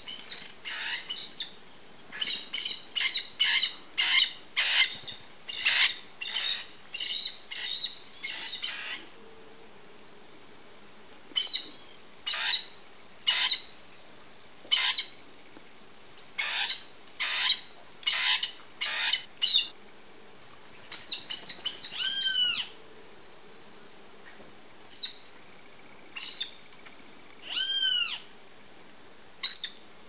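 Bird calls: sharp, quick downward-sweeping notes given in rapid runs, with two clearer arched calls later on. A steady high insect drone sits behind them.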